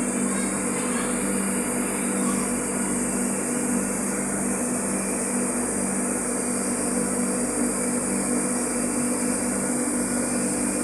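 Flour mill running steadily: a constant low machine hum under a steady high hiss, with no change in speed.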